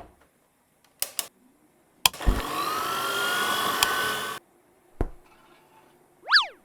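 Cartoon sound effects: a click, two quick knocks, then an electric kitchen mixer whirring for about two seconds, a thump, and a short whistle that rises and falls near the end.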